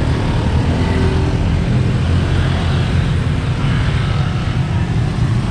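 Steady road traffic noise from cars and motorbikes, a continuous low rumble.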